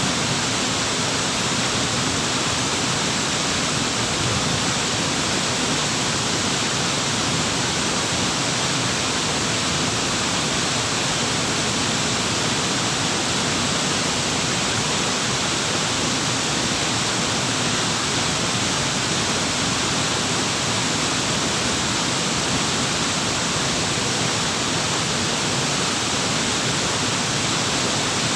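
Waterfall: water pouring in a steady, unbroken rush with no change in level.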